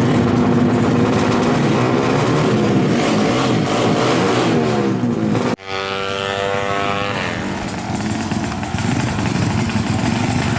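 Yamaha RX-King two-stroke single-cylinder motorcycle engine revving hard. About halfway through the sound cuts off abruptly, then the engine is heard again with its revs falling away and settling.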